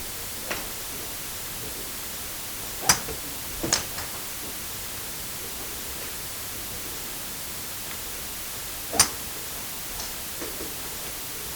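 Sports practice ambience: a steady hiss of background noise broken by a few sharp, isolated impacts, such as ball hits. The two loudest come about 3 s and 9 s in, with smaller knocks about half a second and 4 s in.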